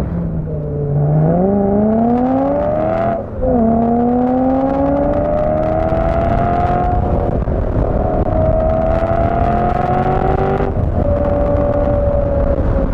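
BMW E92 M3's V8 engine accelerating, its revs climbing. About three seconds in there is a brief lift for an upshift and the pitch drops. The revs climb slowly again, then drop once more about eleven seconds in and sag gently.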